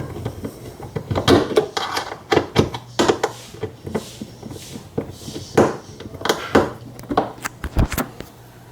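Irregular sharp knocks and clicks of hand tools and screws being worked loose from a washing machine's gearbox mounting, about a dozen over several seconds.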